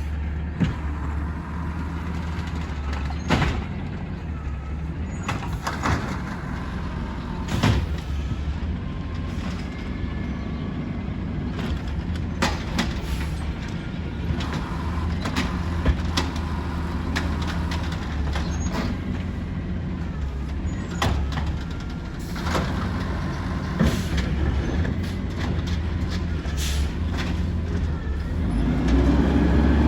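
Garbage truck engine running steadily, with sharp clanks and bangs every few seconds. The engine grows louder near the end.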